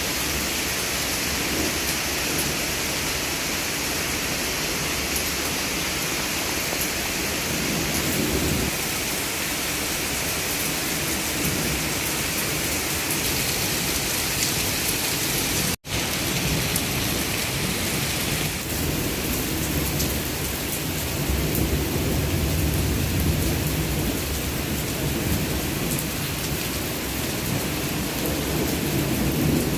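Heavy rain pouring down steadily, a dense, even hiss, with a split-second gap of silence about halfway through.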